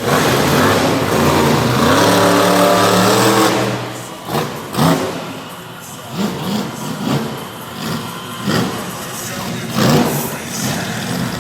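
Monster truck engine revving hard, its pitch climbing over the first few seconds, then dropping off. After that come quieter stretches broken by short throttle surges, the strongest about five and ten seconds in.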